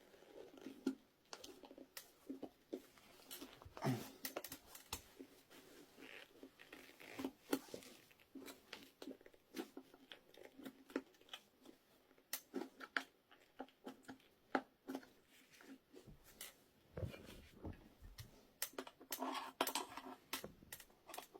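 Irregular clicks, knocks and scrapes of metal spanners being worked as tyre levers against the wheel rim and rubber of a tight 8.5-inch e-scooter tyre, prying the bead off.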